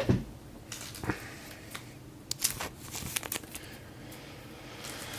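Trading cards and packaging being handled on a table: scattered short clicks and rustles of card stock and wrappers.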